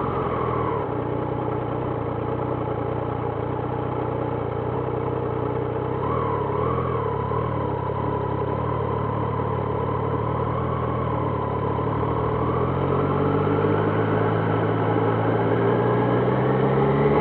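Triumph Trident 660's inline three-cylinder engine running steadily, with a brief wobble in pitch about six seconds in, then rising in pitch over the last few seconds as the bike accelerates.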